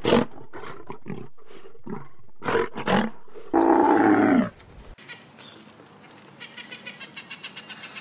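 A lion grunting in a run of short roars, about three a second. Then comes a louder drawn-out call, and in the second half a rainbow lorikeet's quieter, rapid chattering.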